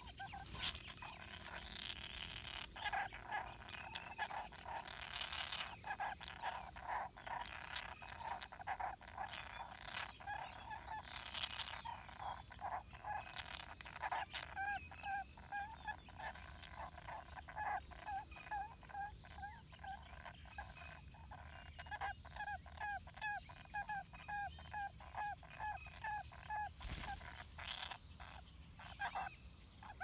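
Birds calling outdoors: runs of short, low, repeated notes at about two a second, growing more regular after the middle, over a steady high-pitched whine.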